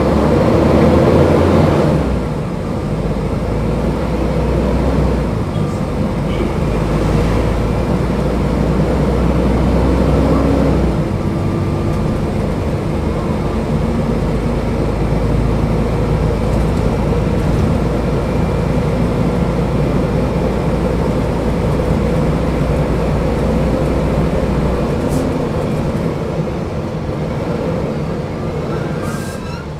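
Mercedes-Benz O500UDA bus's diesel engine running under load. It pulls hardest in the first two seconds and again around ten seconds, holds a steady drone through the middle, and eases off near the end.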